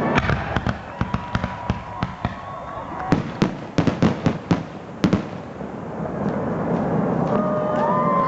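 Fireworks going off: a rapid string of sharp bangs and crackling pops, thickest in the middle.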